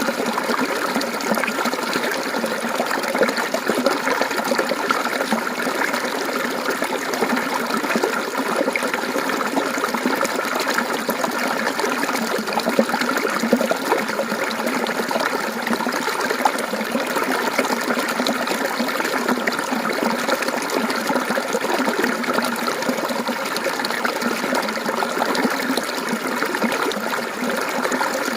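Mountain stream water flowing and trickling over rocks, a steady babbling.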